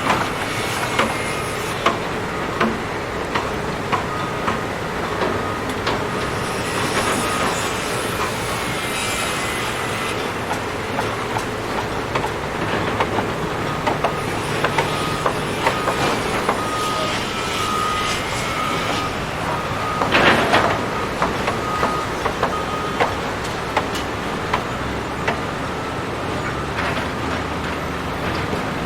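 Heavy demolition machinery running steadily, with frequent knocks and clatter of debris and a thin squeal that comes and goes; a louder crash comes about twenty seconds in.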